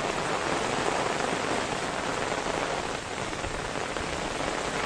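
Steady rain falling on a wet street.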